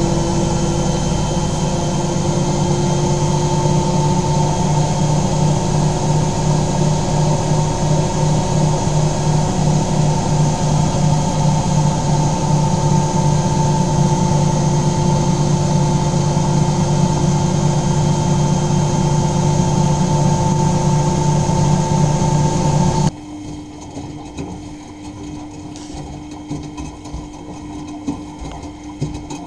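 Miele Novotronic W923 washing machine running with a steady motor hum and whine. About 23 seconds in, the hum cuts off suddenly and leaves a quieter steady hum with light clicks.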